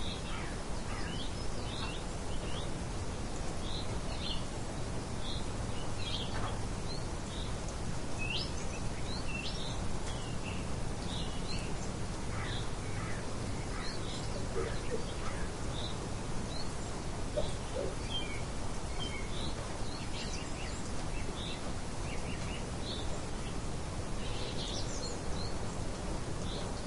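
Steady wind-like rushing noise with many short bird chirps scattered throughout.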